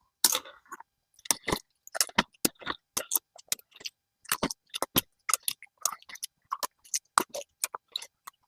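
Collard green leaves and stems being harvested from a large plant: an irregular run of short, crisp snaps and crunches, a few each second.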